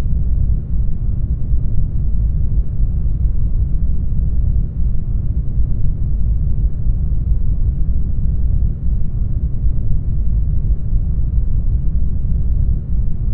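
Brown noise: a steady, deep hiss, heaviest in the low bass and thinning out toward the higher pitches, with no other sound in it.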